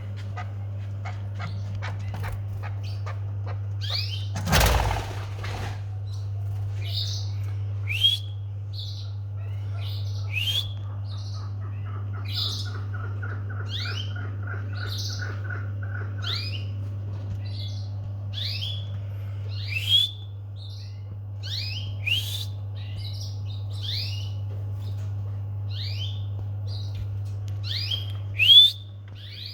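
Domestic canaries chirping, short calls repeating about once a second, with a soft rapid trill near the middle. A loud rustling thump comes about four and a half seconds in, over a steady low hum.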